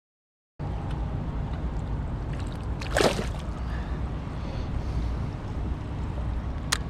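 Wind buffeting the microphone and water moving around a fishing kayak, a steady low rumble with hiss, starting after a moment of dead silence. A short noisy swish about three seconds in and a sharp click near the end.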